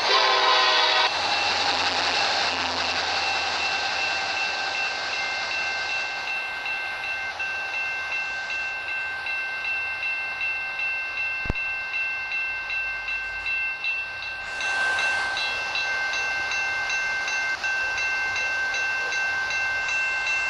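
Diesel freight locomotive air horn sounding and cutting off about a second in, then the train rolling past with steady wheel-and-rail noise under a high, steady squeal. The noise grows louder about two-thirds of the way through.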